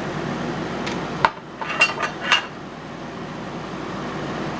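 Hard lock-set parts knocking and clinking as they are handled and set down: one sharp knock a little over a second in, then three quick clinks with a short ringing note, over a steady background hum.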